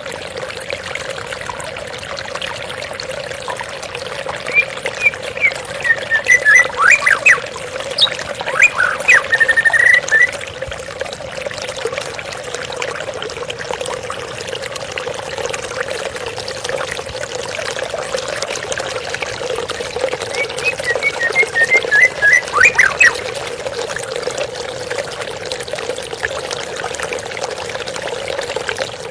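Water flowing and trickling steadily, with a bird chirping in short rapid runs of notes in two spells, about a third of the way in and again about three quarters of the way through.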